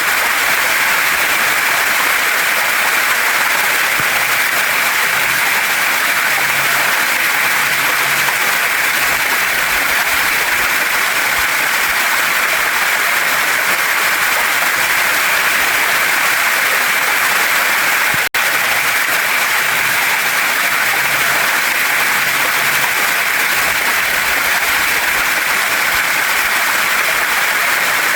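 Steady rushing water of a waterfall and stream, an even hiss with no let-up. It breaks off for an instant about two-thirds of the way through.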